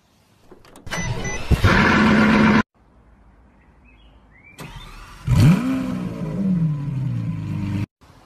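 Supercar engines started from their key fobs in two short clips. About a second in an engine starts and runs briefly before cutting off; about five seconds in a Lamborghini engine fires with one rev that rises and falls, then settles and cuts off suddenly near the end.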